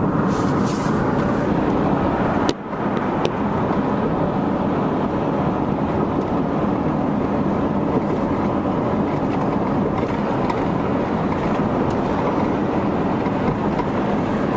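Steady road and engine noise heard from inside a moving vehicle's cabin, with a brief click and momentary dip in the noise about two and a half seconds in.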